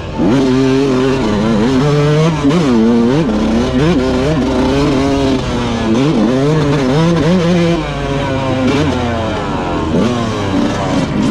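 Motocross dirt bike engine riding hard, its pitch sweeping up and dropping back again and again as the rider opens the throttle and shifts.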